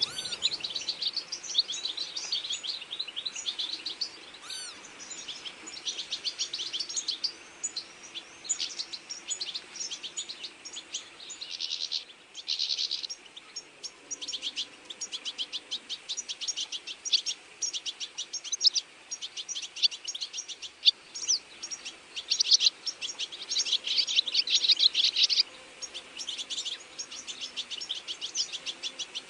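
Many small birds chirping together in a dense chorus of short, high, rapid chirps that overlap without pause. The chorus is busiest a little before halfway and again near the end.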